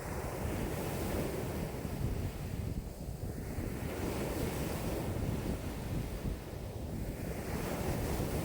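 Wind-driven waves breaking and washing on a lake shore, with strong gusting wind buffeting the microphone. The wash swells and falls back every few seconds.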